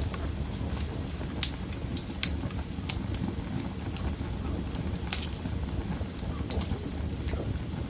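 Wood fire burning in a fireplace: a steady low rumble of flames with sharp, irregular crackles and pops, the loudest about a second and a half in.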